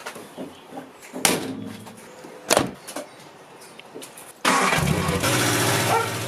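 A couple of sharp clicks, then about four and a half seconds in a car engine suddenly starts and runs steadily.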